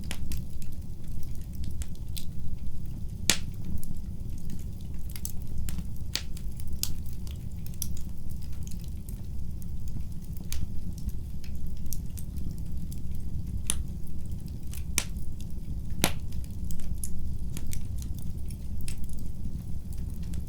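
Wood fire crackling in a fireplace: irregular sharp pops and snaps over a steady low rumble, with the loudest pops about three seconds in and again around sixteen seconds.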